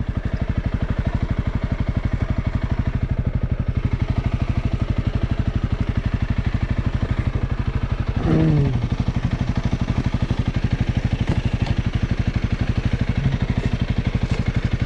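Honda CRF300L's single-cylinder engine idling with a steady, even pulse. A brief falling vocal sound comes about eight seconds in.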